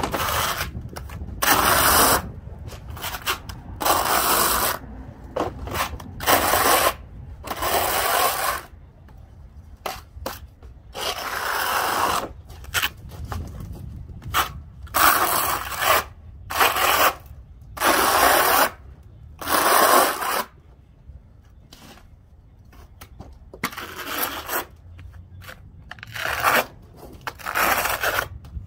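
Trowel spreading an acrylic cement skim coat over concrete: repeated scraping strokes, each about a second long, coming every second or two with a few longer pauses.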